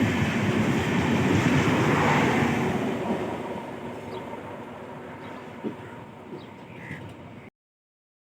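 Express passenger train rolling along a station platform, a dense rumble of coaches with rapid wheel thumps on the rails, fading away steadily after a couple of seconds. The sound cuts off abruptly near the end.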